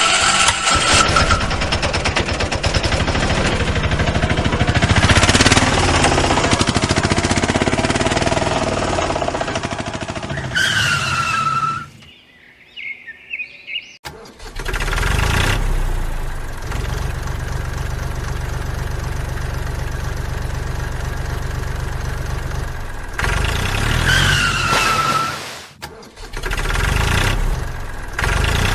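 Motor-vehicle engine starting and running steadily, with a short falling squeal twice and a break of about two seconds in the middle.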